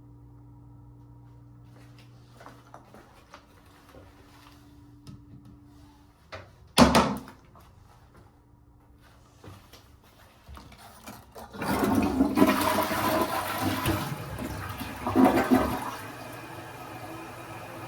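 Toilet flushing: a rushing surge of water for about four seconds starting about two-thirds in, swelling again just before it stops. A single sharp bang comes a few seconds earlier, a little past the middle.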